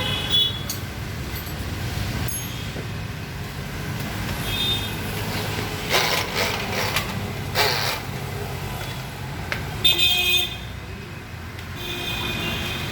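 Short high-pitched horn beeps sound several times over a steady low rumble of road traffic. Two loud clattering noises come about halfway through.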